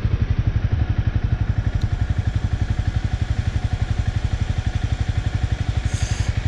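Motorcycle engine idling with a steady, rapid low pulse.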